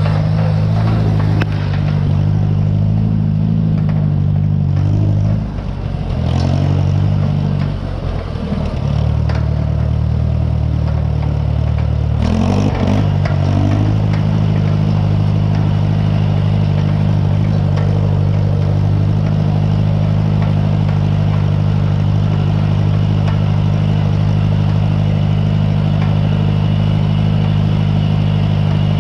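Farmall 140 tractor's four-cylinder gasoline engine running. Its speed changes a couple of times in the first half, then holds steady.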